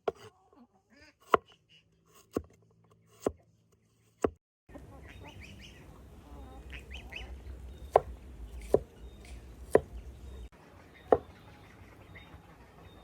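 Sharp single knocks roughly once a second, with domestic fowl calling faintly in the background.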